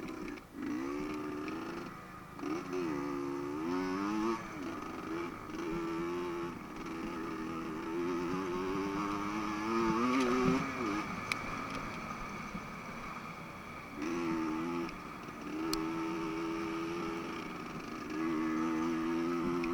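Off-road motorcycle engine revving up and easing off again and again, its pitch climbing and dropping every second or two, with a few short lulls and a couple of sharp clicks.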